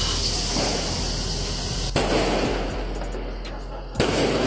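Two sharp bangs about two seconds apart, each trailing off in a hiss, over a steady noisy background.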